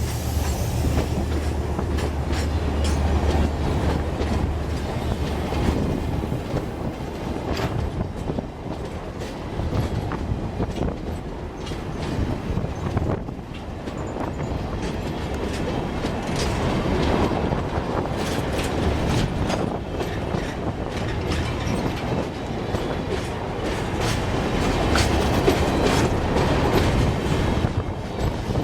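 Long freight train hauled by a General Motors GT22CW diesel locomotive passing: a steady low diesel drone in the first few seconds, then the wagons rolling by with continual clicking of wheels over rail joints.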